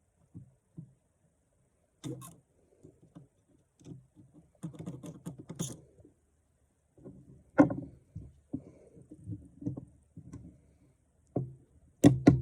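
A person drinking cans of Monster energy drink in a small room: irregular short handling noises and breaths, with a few sharp knocks, the loudest about halfway through and again just before the end.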